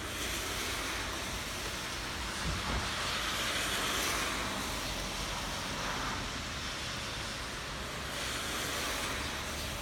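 Rain falling steadily, an even hiss that swells a little about three to four seconds in, over a low rumble.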